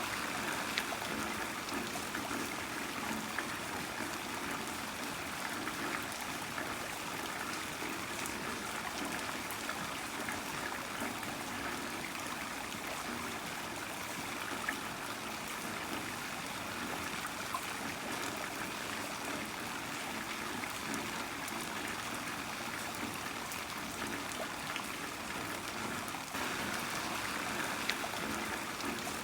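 Heavy rain falling steadily, with water running and dripping and scattered drops striking close by; it grows slightly louder near the end.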